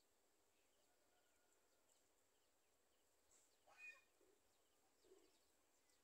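Near silence with a faint hiss, broken a little past the middle by one short, faint bird call with a falling note.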